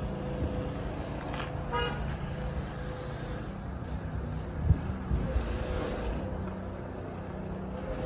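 Steady background vehicle noise, a running engine and road traffic, with a brief high toot just under two seconds in and a single knock a little before five seconds.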